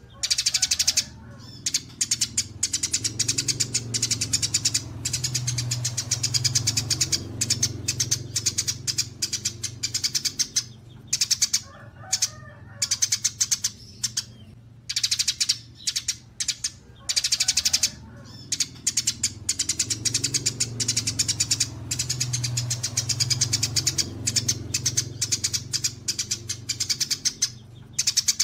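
Songbirds singing in rapid, high-pitched chattering trills, in long runs broken by brief pauses every few seconds, over a steady low hum.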